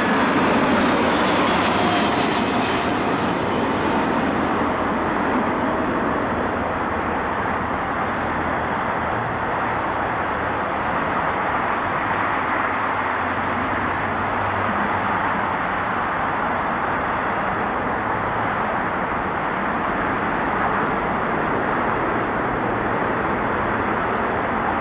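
Jet airliner engines passing close, with a high whine falling in pitch over the first few seconds, then a steady jet roar that slowly eases.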